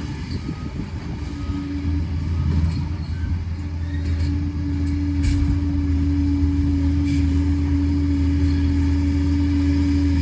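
Liebherr 746 crawler dozer's diesel engine running steadily, with a steady tone over its hum, growing a little louder about two seconds in; a couple of sharp clicks come over it in the second half.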